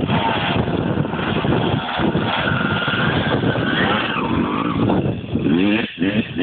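Motocross bike engines revving, their pitch rising and falling as they ride the track.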